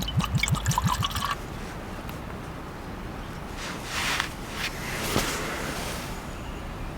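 A quick run of light clinks and knocks of tableware in the first second or so, then liquid being poured in two short spells.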